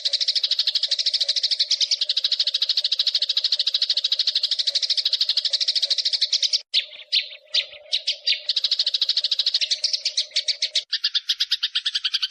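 Eurasian tree sparrows giving a fast, rolling chatter of rapidly repeated chirps, the agitated calling of sparrows fighting. The run breaks up briefly about seven seconds in, and a faint steady low hum beneath it stops near the end as the chatter shifts.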